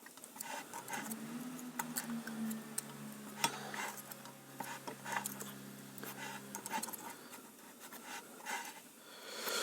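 Small metal clicks and clinks of steel feeler gauge blades being handled, changed and slid between engine gear teeth. A faint steady low hum runs underneath from about a second in until near the end.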